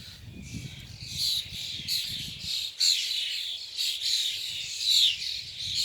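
A flock of small birds calling all at once, a dense chatter of short, high, overlapping chirps, some falling in pitch; the uploader takes it for courting calls.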